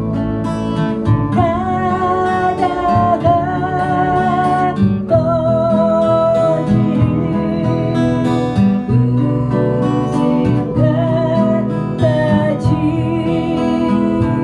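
Acoustic guitar playing a nostalgic Korean folk song, strummed chords with a held, wavering melody line over them.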